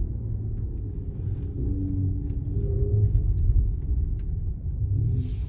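Mercedes-AMG GT53's turbocharged inline-six engine and exhaust, with road noise, making a steady low rumble as the car drives along. A brief hiss comes near the end.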